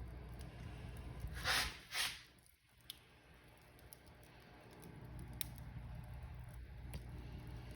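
Wood fire crackling in a fireplace: a low rumble of flames with scattered small snaps, and two louder pops about a second and a half and two seconds in. The rumble then drops away for a couple of seconds before it comes back.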